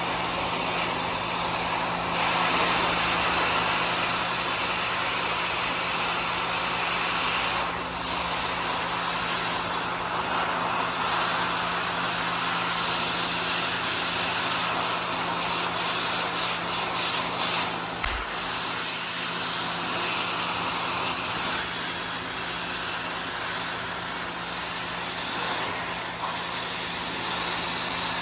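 Oxy-acetylene torch with a scarfing tip gouging out welds: a steady rushing hiss of the cutting-oxygen jet blowing molten metal away, swelling and easing slightly as the torch works.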